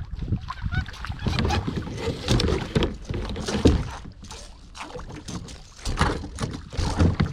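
Knocking and rustling on a kayak as it is handled and paddled, with a steady low rumble of wind buffeting the microphone.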